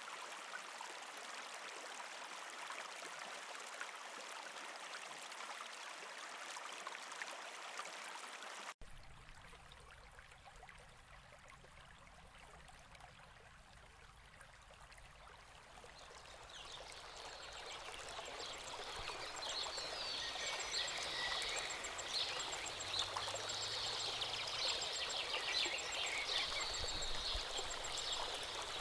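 Steady rushing of a flowing stream, cut off abruptly about a third of the way in. After a quieter stretch, a dense chorus of rapid bird chirping builds up and grows louder toward the end.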